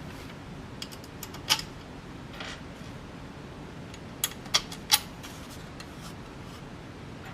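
Light clicks and clinks of hardware and tools being handled while the blades are fitted to a vintage Baja Satellite ceiling fan. The sharpest is a single click about a second and a half in, then three more about four to five seconds in, over a low steady hum.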